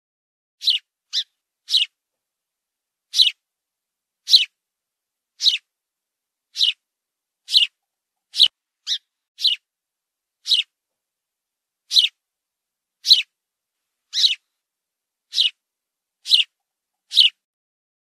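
Small fledgling bird giving short, sharp, high chirps, roughly one a second, with some coming in quick pairs and a run of three about a second in.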